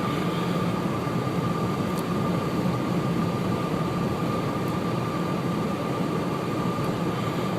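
Steady engine and road noise heard inside a moving car's cabin, with a constant high whine and a few faint ticks.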